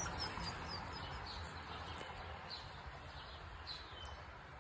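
Faint bird chirps: short, high notes that fall in pitch, repeating every half second to a second over a low, steady background rumble.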